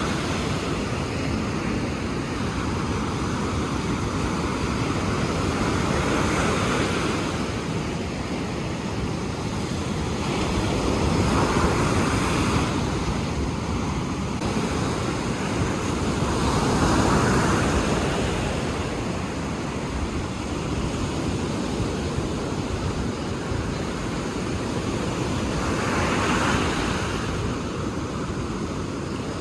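Ocean waves breaking and washing ashore in slow surges, several swells rising and falling, with wind on the microphone.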